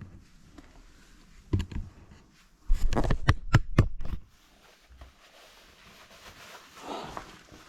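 Sharp clicks and knocks of twigs and nest debris being handled and cleared out of a chimney: two knocks about a second and a half in, then a busier spell of several clicks and rustling about three seconds in.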